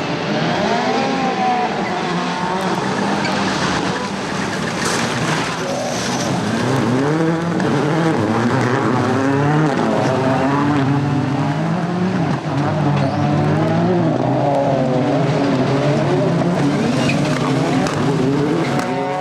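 Several World Rallycross Supercars' turbocharged four-cylinder engines revving hard, their pitch repeatedly climbing and dropping through gear changes, with a few sharp cracks along the way.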